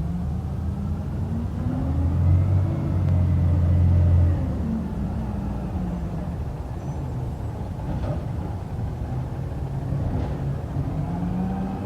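Garbage truck's diesel engine running, its pitch rising and falling as it revs, loudest between about two and four seconds in.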